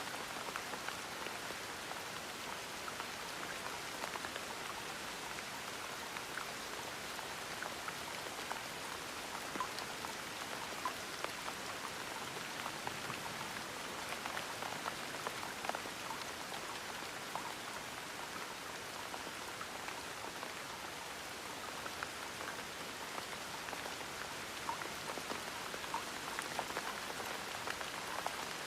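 Gentle rain falling steadily: an even hiss dotted with many small, scattered drop taps.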